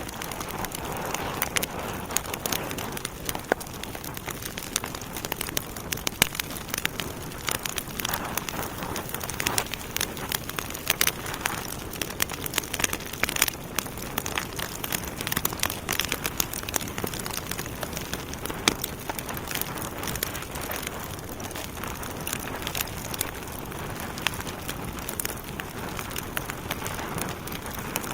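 Wood fire burning in a fireplace: a steady hiss of flames with many irregular crackles and pops from the burning logs.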